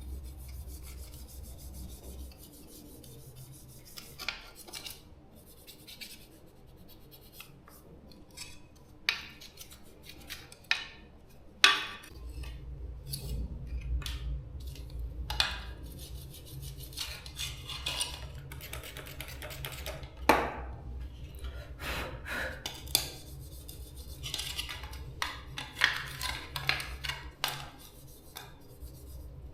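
Hand work on small parts: scattered clicks, taps and knocks with scraping and rubbing between them, over a low hum.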